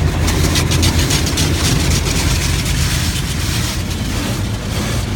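Automatic car wash running over the car, heard from inside the cabin: a dense hiss of water and foam spraying against the body over a steady low rumble. The hiss is strongest in the first couple of seconds and eases a little after.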